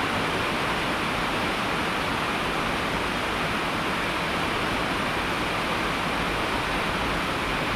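Heavy rain falling in a steady, even rush, with no single drops, splashes or other sounds standing out.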